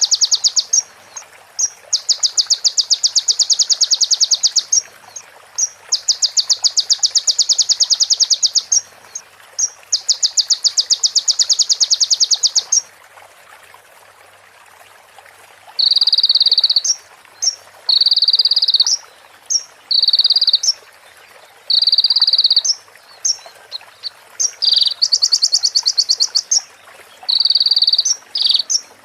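Sunbird (konin) singing fill-in calls in the style of a female prinia and a bar-winged prinia. First come four long, fast ticking trills of about two and a half seconds each. After a short pause it gives a run of shorter high phrases about a second long, mixed with single sharp chips.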